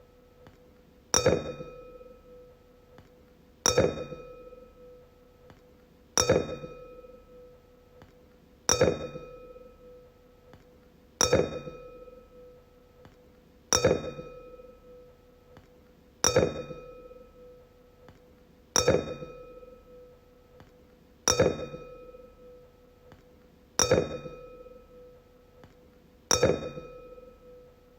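Wine glass struck again and again, about every two and a half seconds, each tap ringing out at one clear pitch with fainter higher overtones that die away before the next strike.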